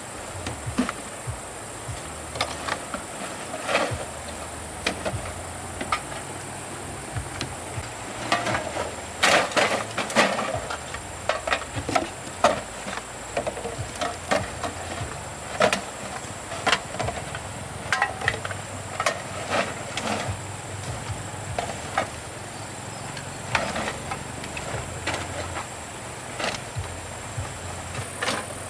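Irregular knocks and clatter of hard objects being handled, loudest for a few seconds near the middle, over a steady high-pitched buzz of insects and a low hum.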